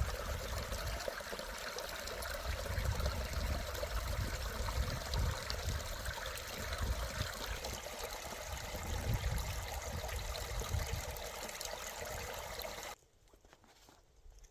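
Small stream flowing and trickling, a steady rush of water with low rumbles coming and going underneath; it cuts off abruptly about 13 seconds in.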